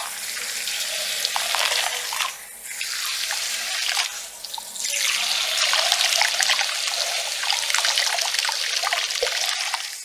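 Water running from a salon shampoo-basin sprayer and splashing while hair is rinsed, with two short breaks in the flow early on.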